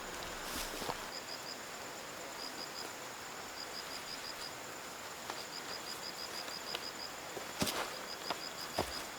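Outdoor rural ambience: a steady hiss with an insect or bird chirping in quick trains of short high pulses, repeated every second or so. A few sharp knocks come near the end.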